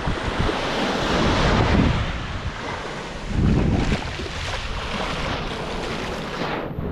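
Surf breaking on a beach, with wind buffeting the microphone in gusts, the strongest about three and a half seconds in.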